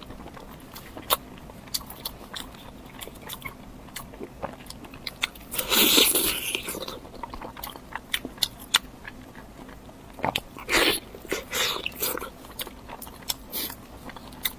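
Close-miked eating: bites and crunches with wet chewing clicks, the loudest crunch about six seconds in and another burst of crunching near eleven seconds.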